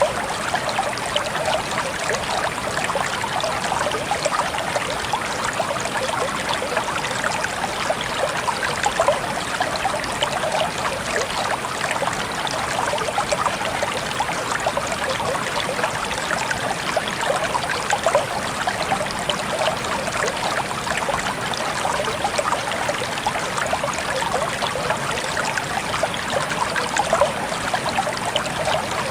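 Water trickling steadily, a dense patter of small droplets and splashes.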